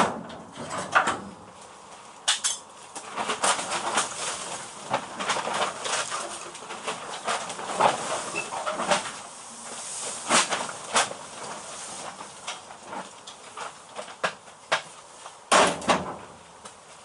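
Hammer and dolly working steel sheet: a long run of irregular metallic knocks, with harder blows near the start, about ten seconds in and near the end, to bring the toe board panel edges together.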